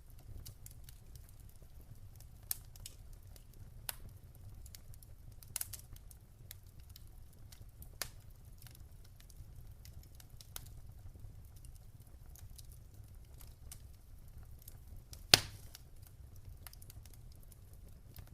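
Fire crackling: scattered small pops and ticks over a steady low rumble, with a few louder snaps and one loud sharp pop about fifteen seconds in.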